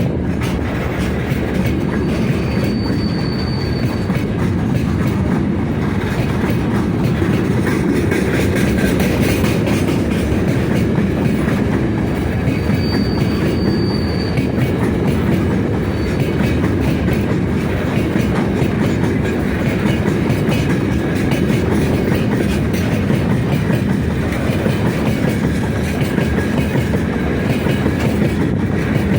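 Loaded freight train wagons rolling past at slow speed, wheels clattering steadily on the rails. The wheels squeal briefly twice, a few seconds in and again around the middle.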